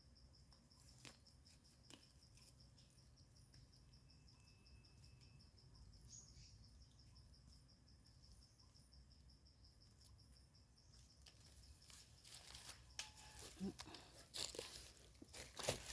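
Faint steady high-pitched trill of a cricket that stops about eleven seconds in. From about twelve seconds in, irregular crackling and rustling of handled leaf litter and mushrooms, growing louder near the end.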